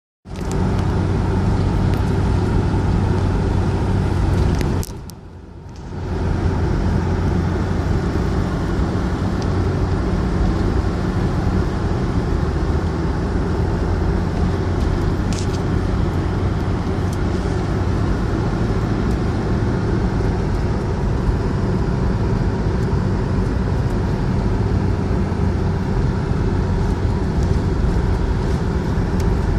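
A vehicle being driven: steady engine hum and road noise. It briefly drops away about five seconds in, then resumes.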